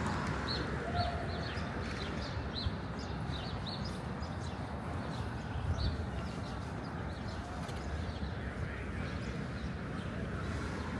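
Small birds chirping in a run of short, high notes that thin out after the first half, over a steady low street rumble.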